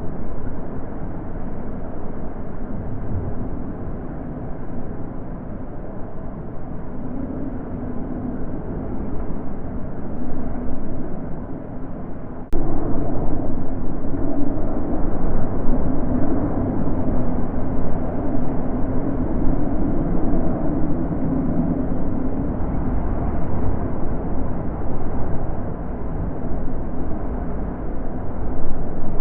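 Wind blowing in gusts: a low, rushing noise that swells and eases. A little over twelve seconds in, it jumps suddenly louder.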